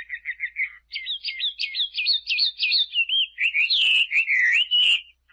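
A small bird calling in a quick run of high chirps. About a second in the notes grow louder and come as rapid down-slurred chirps, then turn into looping, warbling notes that stop just before the end.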